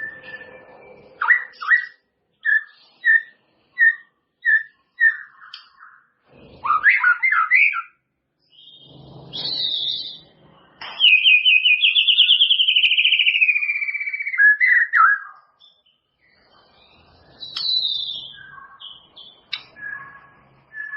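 White-rumped shama (murai batu) singing: a run of about seven clear whistled notes at roughly two a second, a fast tumbling phrase, then a long trill that falls slowly in pitch over about four seconds, followed by scattered shorter notes.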